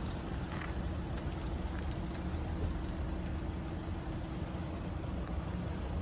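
Steady low engine hum with a faint steady tone, from vehicles at a level crossing.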